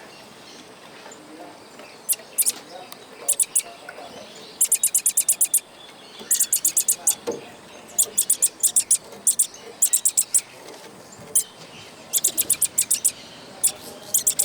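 A small bird calling in quick runs of sharp, very high chirps, about ten a second, in bursts of up to a second that come again and again.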